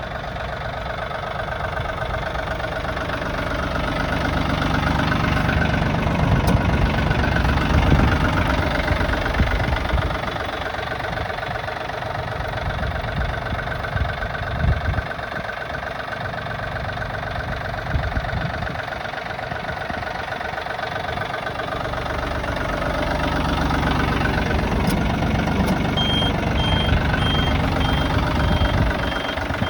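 Yanmar AF26 compact tractor's diesel engine running with a knocking clatter, getting louder twice and easing back between. Near the end a high beep starts repeating about twice a second.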